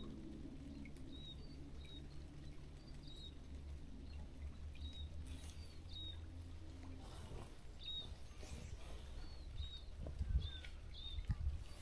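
A small bird repeating short high chirps about once a second over a low steady outdoor rumble, with a few low thumps near the end.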